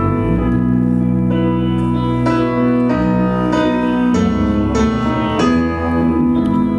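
A live band plays an instrumental passage without vocals, with keyboard chords out front over bass and drums.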